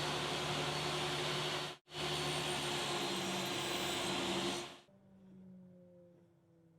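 Electric motor running steadily with a loud whooshing hiss, cut off for an instant just before two seconds in, then switched off about five seconds in and winding down with a falling hum.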